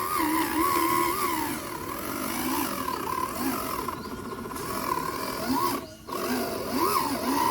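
Small electric motor and gearbox of an RC truck whining. The pitch wavers up and down with the throttle, and it cuts out briefly about six seconds in.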